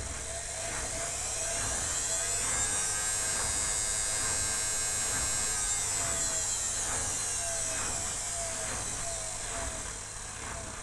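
Indesit WIL82 washing machine on its spin cycle: the motor's whine rises over the first three seconds, holds, then falls away again toward the end as the drum speeds up and slows, with faint knocks throughout.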